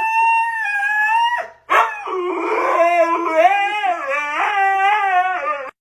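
A dog howling: one drawn-out, fairly steady howl that breaks off about a second and a half in, then a longer howl whose pitch wavers up and down until near the end.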